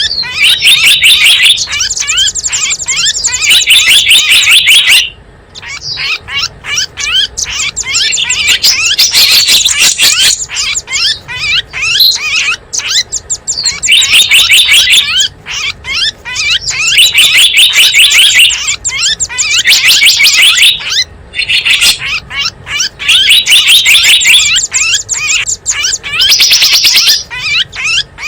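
Loud, dense, rapid chirping and twittering of small songbirds, a bird-lure recording meant to draw in small wild birds. It pauses briefly about 5, 12 and 21 seconds in.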